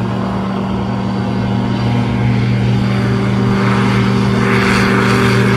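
A small light airplane's propeller engine runs at steady high power on its takeoff run, growing gradually louder as it approaches.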